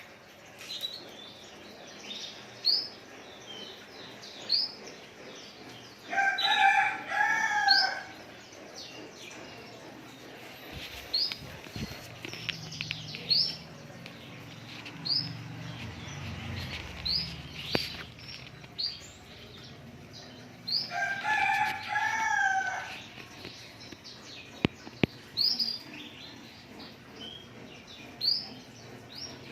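Small songbird, a white-eye (pleci), giving short rising chirps again and again. A rooster crows twice in the background, about six seconds in and again near twenty-one seconds.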